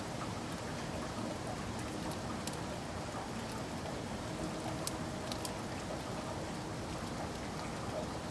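Steady rain falling, with a few sharper drop ticks about five seconds in.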